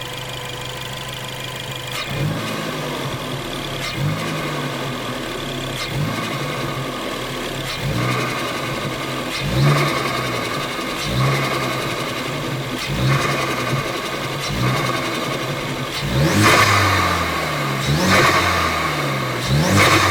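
Ford Focus ST turbocharged engine revved in short repeated blips, about one every two seconds, each throttle lift followed by turbo flutter through the Go Fast Bits DV+ diverter valve and open Green air filter. The last few blips are higher and louder.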